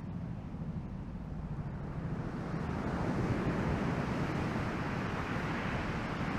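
Ocean surf from a typhoon swell mixed with wind buffeting the microphone: a steady low rumble, with a wash of hiss swelling about two seconds in.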